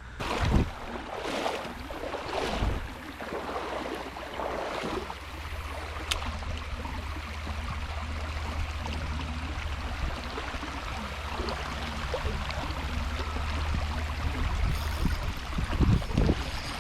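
Creek water rushing steadily, with a few knocks and splashes in the first few seconds and again near the end.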